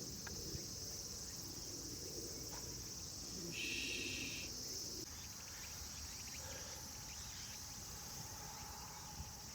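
Insects chirring steadily in grassland, a high continuous trill, with a louder, slightly lower chirp lasting about a second roughly three and a half seconds in.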